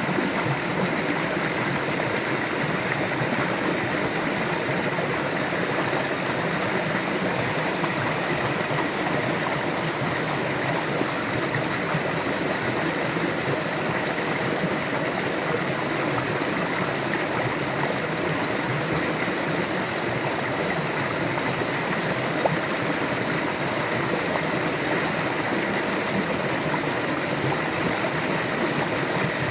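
River water flowing steadily, a constant rushing and burbling.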